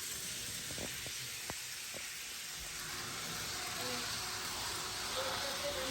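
N-scale model ICN train running on its track: a steady hiss of the small wheels and motor that grows louder about halfway through, with a few light clicks in the first two seconds.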